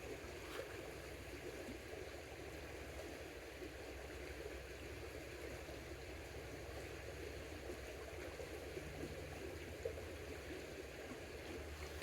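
Creek water running steadily and faintly, with one small tick about ten seconds in.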